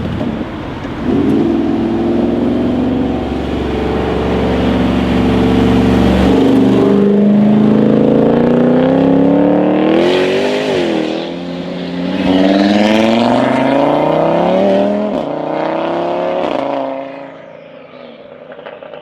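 Jaguar F-Type R's supercharged V8 through a straight-piped Larini exhaust. It runs steadily, then accelerates hard: the engine note rises in pitch three times with a brief dip between each rise. It fades away near the end.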